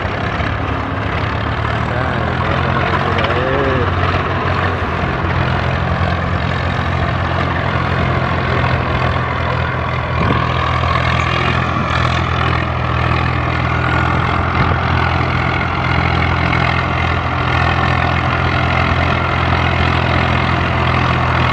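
Tractor diesel engines running steadily at high revs under heavy pulling load.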